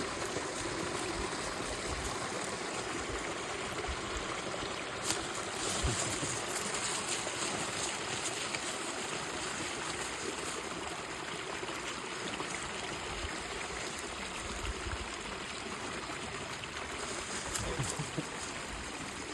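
Creek water flowing steadily through a freshly broken dam of sticks and leaves.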